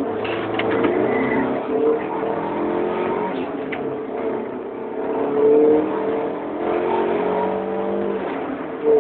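Fiat Palio 1.6 16v four-cylinder engine under hard acceleration, setting in abruptly. Its pitch climbs through each gear and drops back at each shift, several times over.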